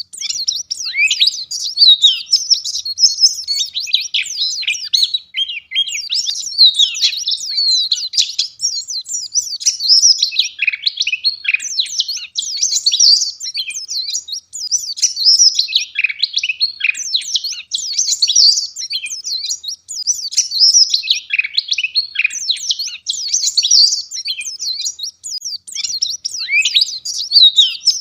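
White-eye (pleci) singing a fast, dense, high-pitched twittering song in long run-on phrases, broken by brief pauses.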